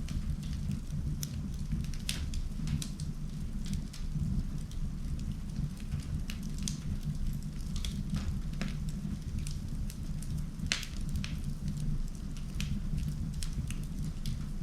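Wood fire burning in an indoor fireplace: frequent sharp, irregular crackles and pops from the burning wood over a steady low rumble.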